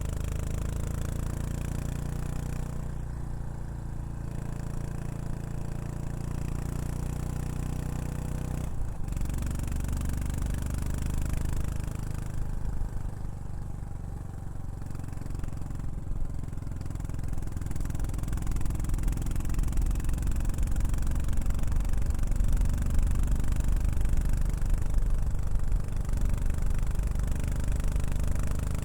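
Yamaha SR400 single-cylinder engine running through a Prunus aftermarket muffler. The exhaust note is steady and grows louder over the last third.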